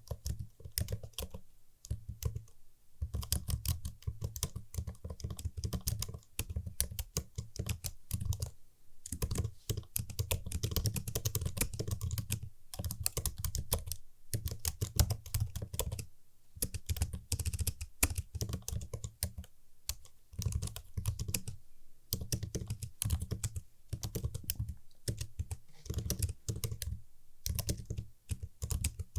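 Typing on a computer keyboard, with crisp key clicks in quick runs broken by short pauses.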